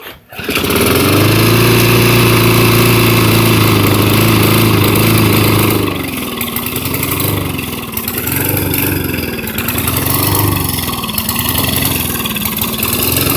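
Small lawn mower engine catching and running at a steady fast speed. After about six seconds it starts surging, its speed rising and falling about every second and a half. It is making a weird noise that the owners think comes from something wrong with the shaft.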